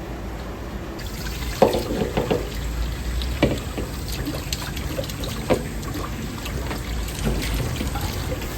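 Water running from a tap into a sink, with a few sharp clinks and knocks now and then.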